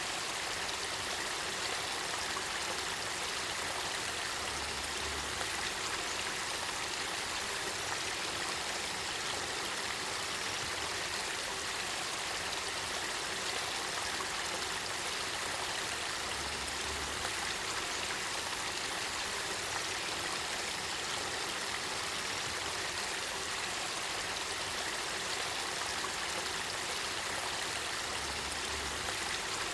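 Steady rush of spring water from the Kakita River springs flowing and splashing, an even, unbroken hiss that does not change.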